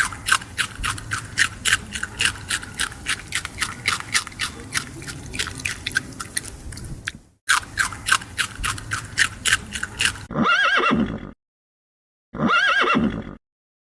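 Equine hooves galloping, a steady beat of about four or five hoof strikes a second, breaking off briefly and resuming. Then two identical neighing calls, each about a second long with a rising-and-falling pitch, about two seconds apart.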